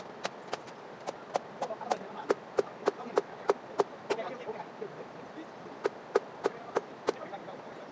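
A hand tool striking wood in quick, even blows, about three a second, with a pause of over a second past the middle and a stop near the end: wooden fence rails being knocked loose from their posts.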